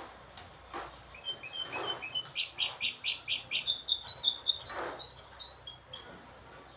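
Goldfinch hybrid singing one song phrase: runs of short, clear repeated notes that step higher in pitch, starting about a second in and stopping about a second before the end. A few soft rustles are heard alongside.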